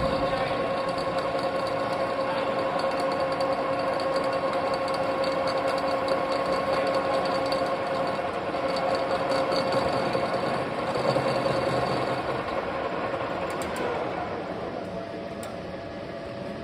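Metal lathe running, a steady machine hum with a whine on top. It gets quieter near the end.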